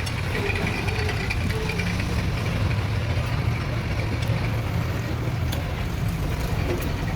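Diesel truck engine idling steadily, a low, even running sound.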